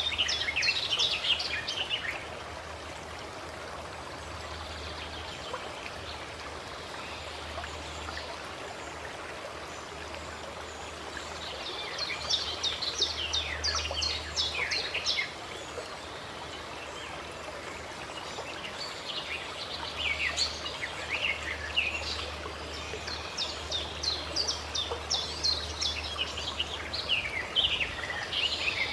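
Running water flowing steadily, with birds chirping in quick rapid series: near the start, again about twelve seconds in, and through most of the last ten seconds.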